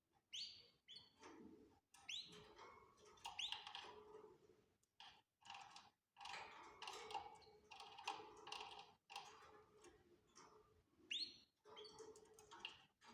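Canaries chirping and calling in a run of short notes, with a few quick sweeping whistles scattered through.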